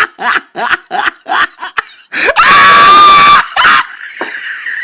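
Rapid, choppy bursts of a person's laughter, breaking about two seconds in into a loud, high shriek held for about a second, then tailing off in short breathy laughs: a comedic laugh sound effect.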